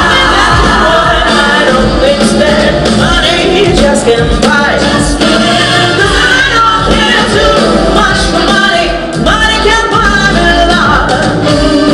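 Live pop-rock band playing, with voices singing over it.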